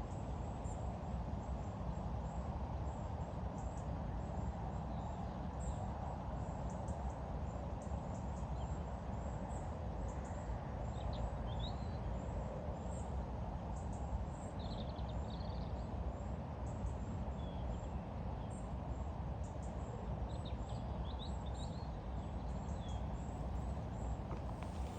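Steady low outdoor rumble, with short bird chirps now and then, mostly in the second half.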